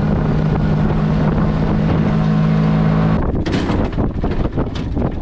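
Tractor engine running steadily under heavy wind buffeting the microphone. The engine's steady hum cuts off about three seconds in, leaving gusty wind.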